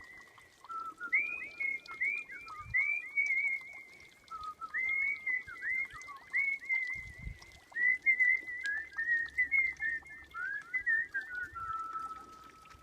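A person whistling a melody in the artistic style, with quick upward slides, warbling trills and runs of fast notes, ending on a held lower note.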